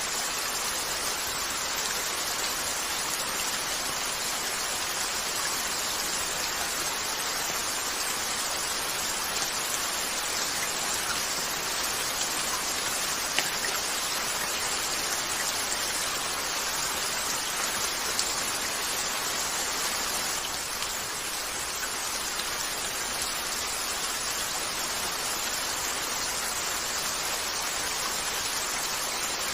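Steady rain falling on a window, an even hiss, with a couple of faint sharp pops from a crackling fireplace.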